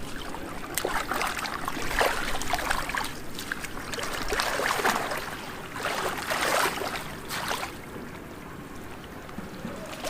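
Shallow floodwater sloshing and splashing in three or four surges of about a second each, as someone wades and works by hand in the muddy water.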